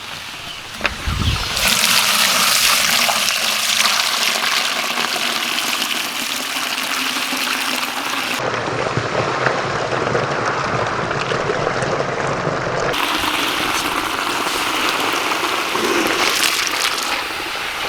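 Steady rush of running water that sets in about two seconds in and keeps going.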